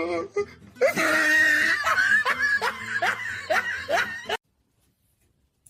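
A person laughing hard in a quick run of bursts, cutting off suddenly about four seconds in.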